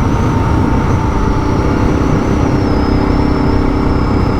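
Suzuki DR650's single-cylinder engine running at a steady cruising speed, mixed with heavy wind noise. The engine pitch holds level, with no revving up or down.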